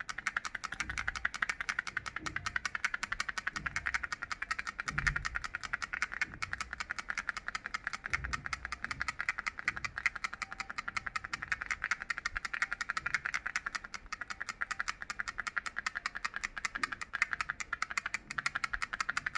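Mini hand fan rattle toy making a rapid, steady clicking that runs without a break, with a few soft low thumps from handling.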